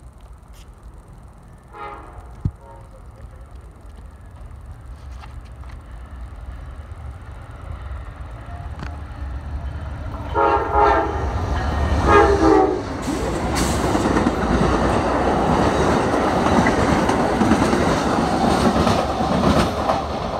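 Passenger train approaching and passing: the locomotive's horn sounds two blasts about halfway through, then the rumble and rush of the wheels on the rails grows loud and holds steady as the train goes by.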